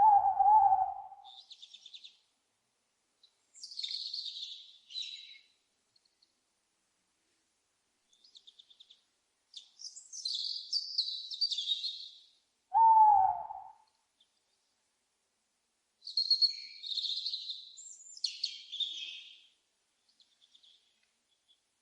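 An owl hooting twice, one short call right at the start and another about 13 seconds in that falls in pitch, with several bouts of high, chirping bird calls in between and after.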